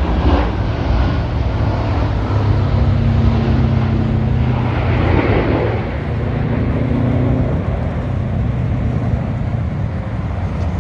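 Military jets flying over in formation, a continuous loud rumbling jet noise that swells about three to five seconds in.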